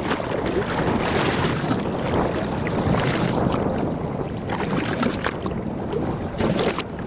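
Motorboat running under way, its engine and rushing water mixed with wind buffeting the microphone.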